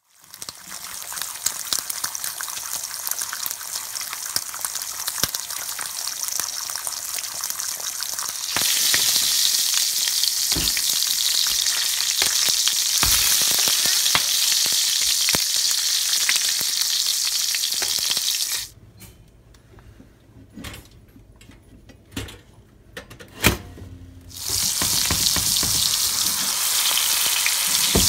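Grape tomatoes and other food frying in hot fat in a skillet: a steady sizzle that gets louder about a third of the way in. Past the middle it drops away for several seconds, with a few light clicks and one sharp knock, then comes back loud.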